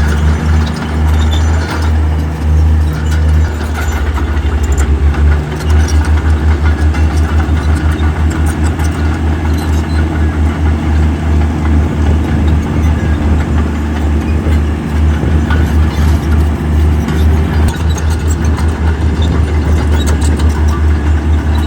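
Heavy construction-machine diesel engine running steadily: a loud low rumble with a fast, even pulse.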